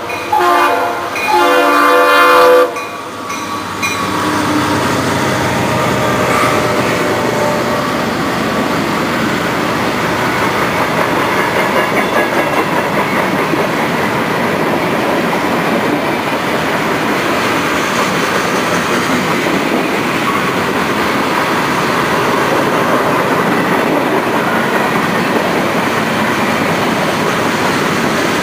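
CSX freight locomotive's air horn sounding, ending under three seconds in, followed by the steady rumble of a long string of freight cars rolling past close by, steel wheels clacking on the rails.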